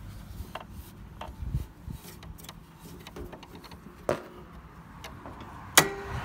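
Scattered light clicks and knocks, with a louder knock about four seconds in and a sharp knock near the end that rings briefly.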